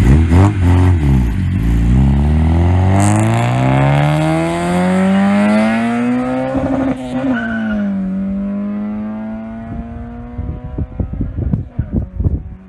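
Toyota Corolla AE82's built 4A-GE 20-valve 1.6-litre four-cylinder accelerating hard away. The revs climb for about seven seconds, drop at a gear change, then climb again as the car fades into the distance. Crackling near the end.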